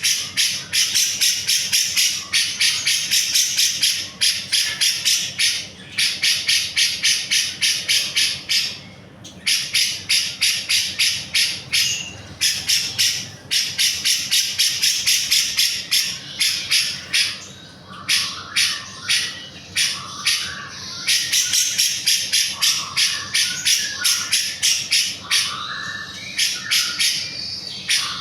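Grey-cheeked bulbul (cucak jenggot) singing in long runs of rapid, sharp repeated notes, about four or five a second, in phrases of a few seconds broken by short pauses.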